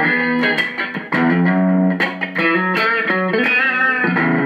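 Electric guitar played through a Zoom G3Xn's Marshall amp simulation on its first-stage drive preset, neck pickup: a phrase of picked notes and chords with several sustained notes, one shaken with vibrato about three seconds in.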